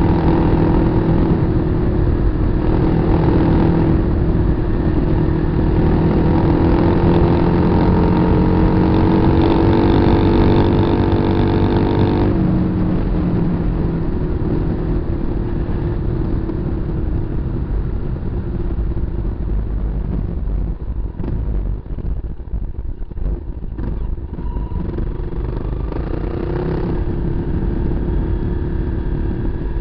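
Kawasaki KLR250's single-cylinder four-stroke engine running under steady throttle, then suddenly backing off about twelve seconds in to a lower rumble. Scattered knocks follow during the slower stretch, and the engine picks up a little again near the end.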